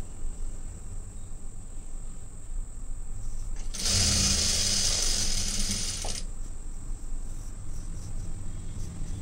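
Electric sewing machine running a short seam of stitching for about two and a half seconds near the middle, then stopping. A steady low hum and a faint high whine run underneath.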